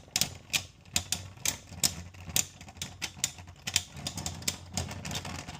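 Two Beyblade X spinning tops, Lightning L-Drago and Rock Leone, whirring and clashing in a plastic stadium: a low steady hum with an irregular run of sharp clicks and knocks, about three a second. It stops shortly before the end as the battle finishes.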